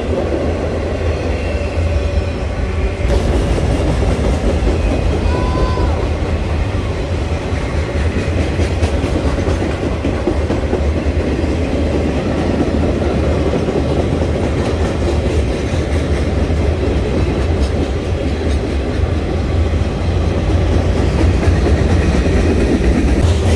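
Freight train cars rolling past at close range: a steady, loud rumble of steel wheels on the rails with a rhythmic clickety-clack of wheels over the rail joints.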